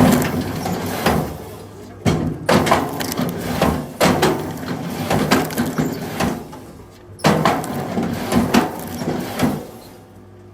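Firewood being split and handled: wood cracking and knocking in several runs, each starting sharply, at the start and about 2, 4 and 7 seconds in.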